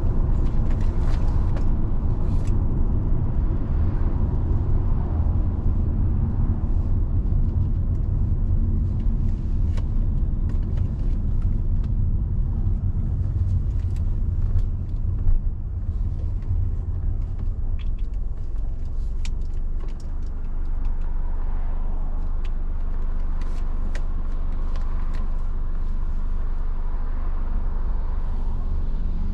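Car driving on a road: a steady low rumble of road and engine noise with tyre hiss, and scattered short ticks throughout.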